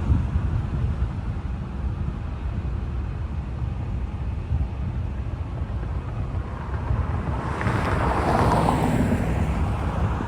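Wind buffeting the microphone, with a road vehicle passing along the street, its tyre noise swelling about three quarters of the way in and then fading.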